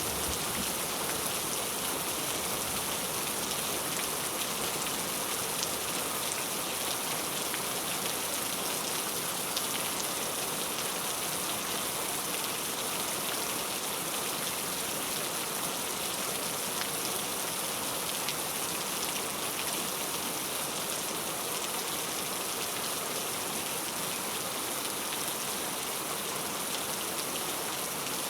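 Heavy rain falling steadily: an even, unbroken hiss with scattered individual drop ticks.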